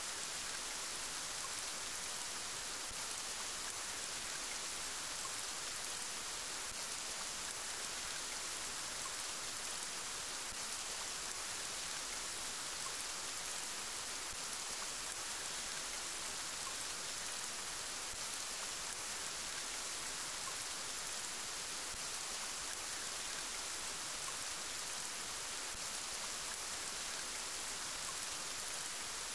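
Steady rain falling, an even hiss of many drops on a surface with no change in intensity.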